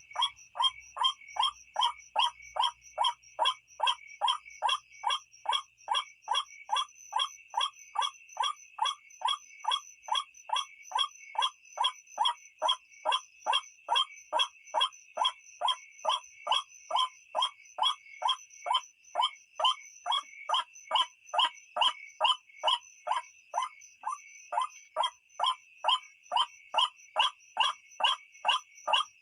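White-breasted waterhen (ruak-ruak) call: one croaking note repeated steadily about twice a second. This is a recorded call used as a lure to draw the birds in at night.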